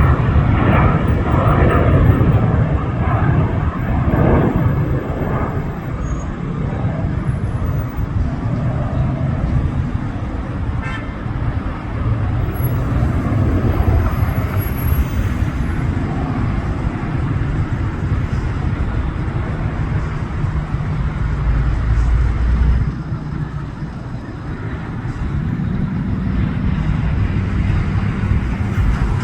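Steady low rumble of road traffic, with vehicles passing one after another and a heavier, deeper pass a little past the middle.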